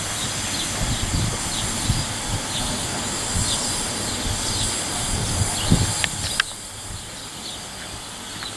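Small birds chirping in short repeated calls over a low, gusty rumble of wind on the microphone. Two sharp clicks come about six seconds in, after which the background turns quieter.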